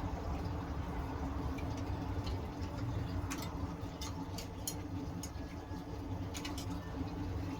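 Scroll saw running with a steady motor hum, while scattered light ticks come through irregularly.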